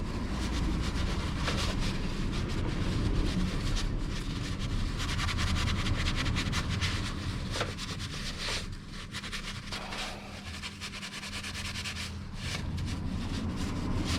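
Rag rubbing and wiping around the freshly tightened oil filter housing, a continuous scratchy rubbing that eases off in the second half, over a steady low hum.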